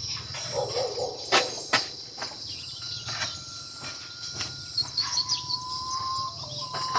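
Insects buzzing in a steady high chorus, with scattered sharp knocks and taps, the two loudest about a second and a half in.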